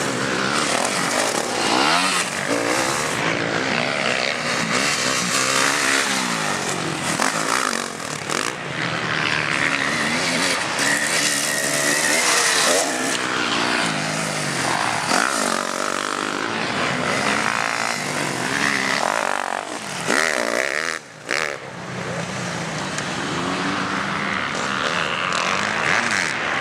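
Several motocross bikes racing, their engines revving up and down in overlapping pitches as they accelerate and pass. The sound dips briefly about two-thirds of the way through.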